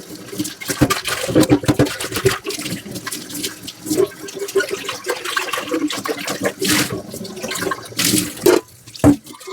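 Dishes being washed in a kitchen sink under running water, with irregular clinks and knocks as the dishes are handled and scrubbed.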